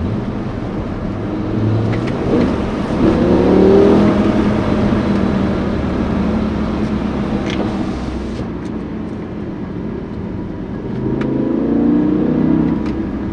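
BMW M5 E60's V10 engine pulling under acceleration, its note swelling twice: once around three to four seconds in and again near the end.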